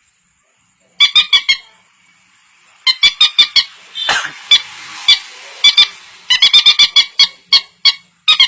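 Hand-operated bird caller imitating the call of a rail (burung mandar/peruk): rapid clusters of sharp, squeaky pitched notes, repeated in bursts, with a short rasping noise about halfway through.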